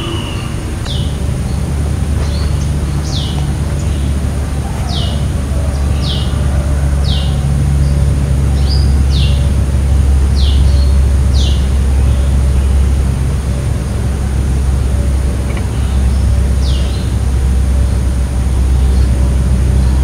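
A steady low rumble, with a bird giving short, high chirps that each slide down in pitch, about a dozen of them, mostly in the first two-thirds.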